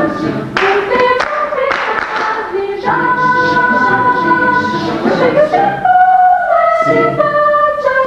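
Choir singing held chords a cappella, the harmony moving every second or two, with short noisy sounds between about half a second and three seconds in.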